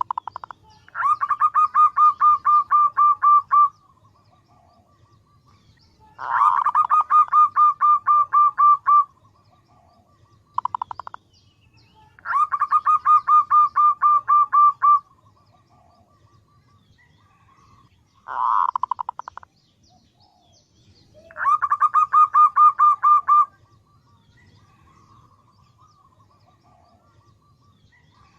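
Female zebra dove (perkutut) calling over and over: four long phrases, each a rapid run of short, evenly spaced notes at about five a second lasting around two and a half seconds, with two shorter, faster bursts between them. This is the call a hen uses to draw a male.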